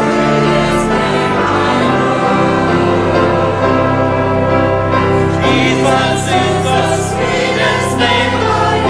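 Church choir singing a gospel chorus, steady throughout.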